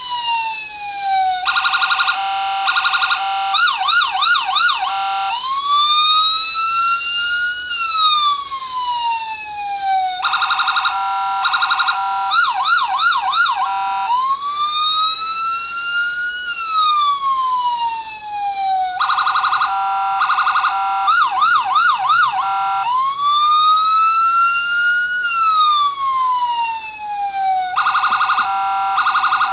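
Electronic police siren from the circuit board of a custom-built Dodge Charger LAPD police car, running through a fixed cycle: a slow wail falling and then rising, a choppy two-tone hi-lo, and a fast warbling yelp. The cycle repeats about every nine seconds.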